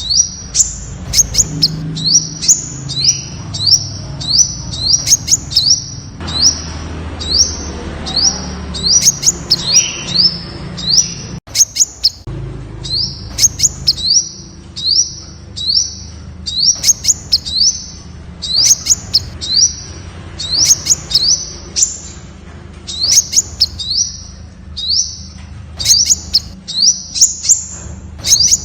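Temminck's sunbird calling: a steady series of short, high, thin chip notes, about two a second, over a faint low hum.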